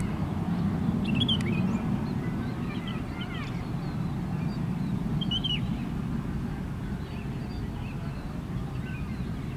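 Short bird chirps, a few of them in the first six seconds and one faint one near the end, over a steady low rumble.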